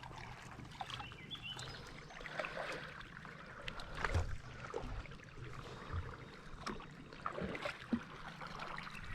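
Kayak being paddled: quiet paddle splashes and water dripping, with a few soft knocks scattered through.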